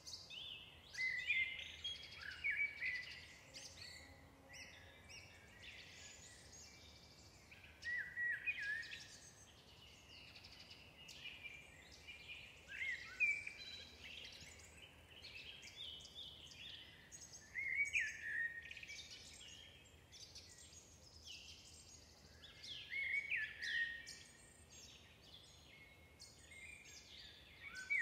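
Wild birds chirping and calling in short bouts every few seconds, with quieter gaps between.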